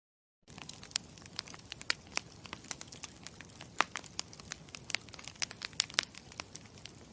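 Campfire crackling: irregular sharp pops and snaps over a low steady rumble. It starts about half a second in.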